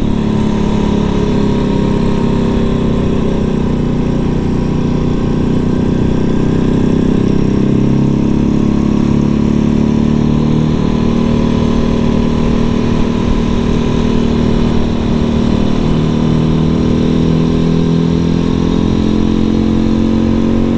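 Janus Halcyon 450's single-cylinder engine running steadily under way at cruising speed, its pitch drifting slightly up and down.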